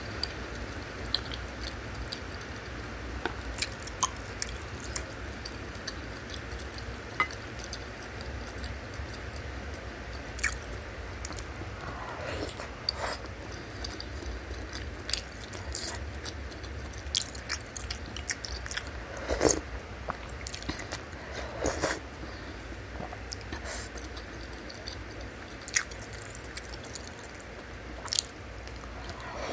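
Close-miked chewing of beef meatballs and fatty beef tendon in soup: wet mouth clicks and squishes scattered throughout, with a few louder wet bites about 12, 19 and 22 seconds in, over a steady low hum.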